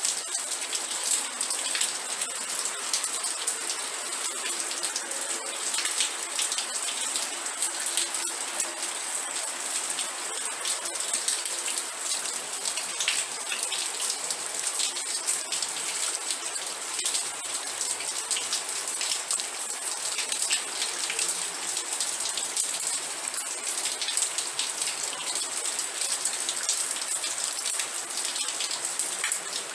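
Steady rain with dense, close raindrop ticks, even and unchanging throughout.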